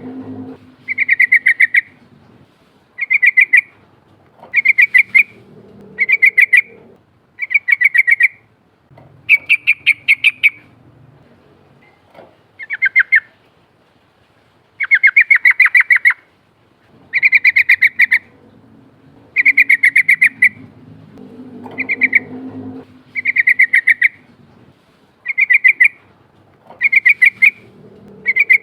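Yellow-vented bulbul (trucukan) singing its rolling song: short bubbly phrases of rapid notes, repeated about every two seconds.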